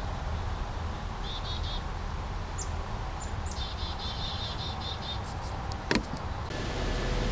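Brook water flowing steadily while a songbird sings two runs of quick repeated high notes, with a few short high chips between them. A sharp click comes about six seconds in, and after it the sound turns duller.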